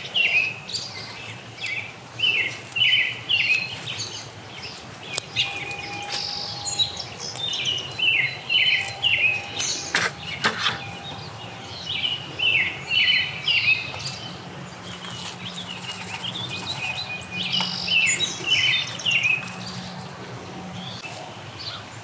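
A bird chirping in short repeated phrases of quick down-slurred notes, a phrase every second or two. There is a single sharp knock about ten seconds in.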